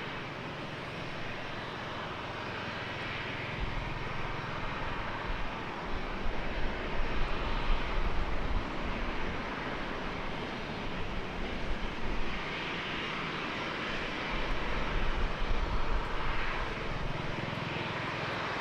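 Jet airliner engines at an airport runway, a continuous rushing noise that swells twice before easing back.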